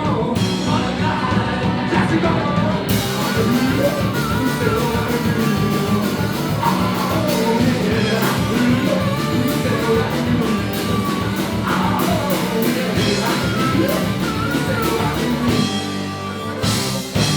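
Live rock band with a singer: vocals over drums, bass and guitar at a steady beat. The band thins out near the end, with one last loud hit.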